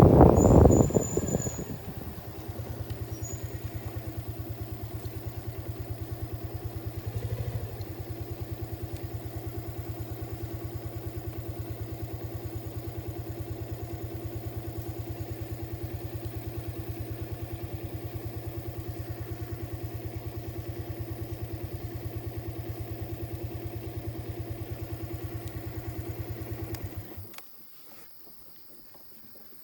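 Bajaj Pulsar 150 single-cylinder motorcycle engine idling steadily after a louder first two seconds, then cutting off suddenly near the end as it is switched off.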